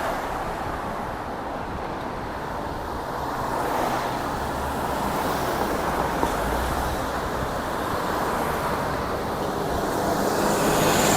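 Street traffic noise: a steady wash of cars going by, with a low swell of a passing vehicle partway through.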